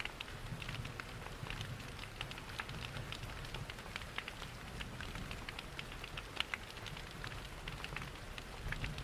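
Steady rain mixed with a crackling wood fire: an even wash of rain over a low rumble, dotted with many short, sharp crackles and ticks at irregular moments.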